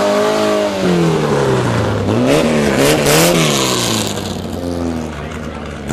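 Air-cooled flat-four engine of a 1965 Volkswagen notchback on open headers, revved in several throttle blips so its pitch rises and falls repeatedly, easing off near the end.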